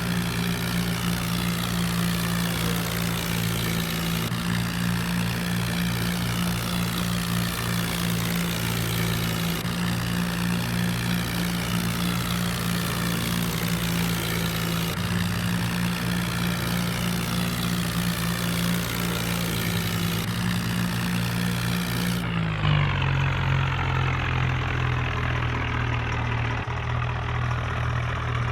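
Diesel tractor engine running steadily at a constant speed. About three quarters of the way through the sound changes abruptly to a lower, deeper engine note.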